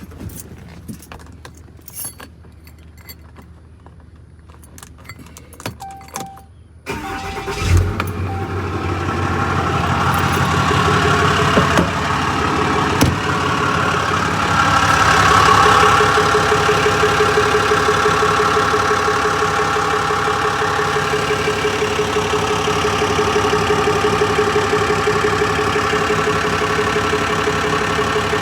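A few light clicks, then the Ram 5500's 6.7 L Cummins inline-six turbo-diesel cranks and fires about seven seconds in, runs a little louder for a moment, and settles to a steady idle. The idle carries the ticking/knocking that has appeared two weeks after an engine replacement.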